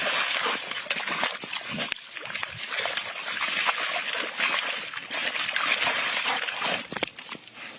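A dog wallowing and splashing in a muddy puddle: continuous wet splashing and sloshing with small slaps, dying away about seven seconds in.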